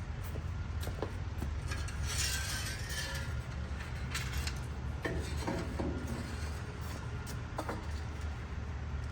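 Metal clattering and clinking about two to three seconds in, with a few scattered knocks later, over a steady low rumble: parts being handled while fetching the exhaust pipe.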